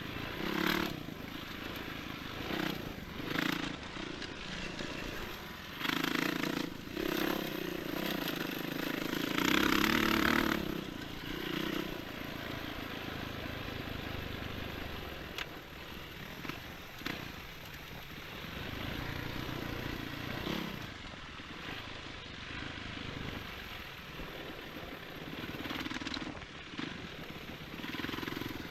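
Enduro motorcycle engine running and revving in uneven bursts while riding. It is loudest about ten seconds in, then settles to a steadier, quieter run.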